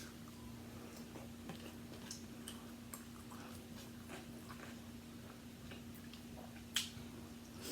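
Quiet eating at a table: scattered faint clicks and taps of seafood shells and food being handled and chewed, with one sharper click near the end, over a faint steady hum.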